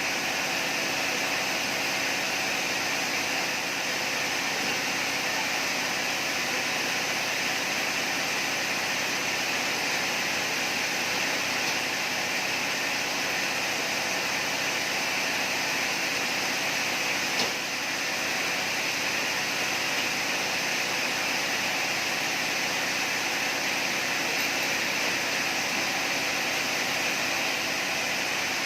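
Sawmill machinery running steadily, a continuous mechanical noise that stays high-pitched and even throughout, with one brief click about two-thirds of the way through.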